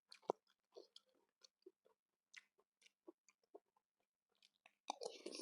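Close-miked chewing: a person eating with many short, quiet mouth clicks and smacks, and a louder stretch of eating noise near the end.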